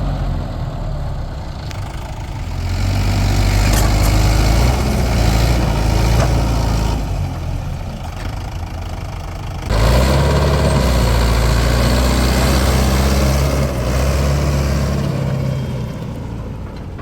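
Diesel engine of heavy earth-moving machinery running under changing load. It rises about three seconds in, eases off around eight seconds, jumps up again suddenly near ten seconds, then fades over the last couple of seconds.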